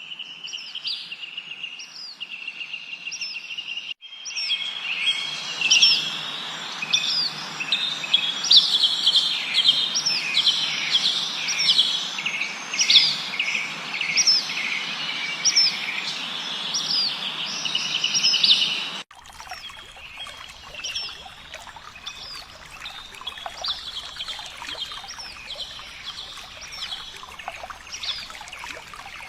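Several songbirds chirping and calling with quick repeated notes. About four seconds in the sound changes abruptly to a denser, louder chorus over a steady rushing noise. About nineteen seconds in it cuts again to a quieter chorus of chirps.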